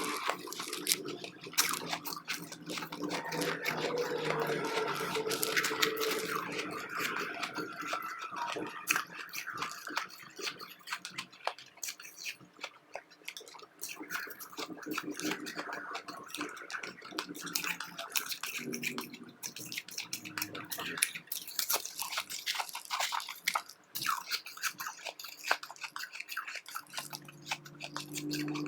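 Close-miked chewing of powdery refrozen ice chips: a dense, irregular run of crisp crunches and crackles in the mouth.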